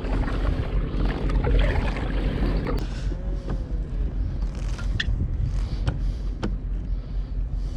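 Wind buffeting the microphone in a steady low rumble, with a few sharp clicks about two-thirds of the way in.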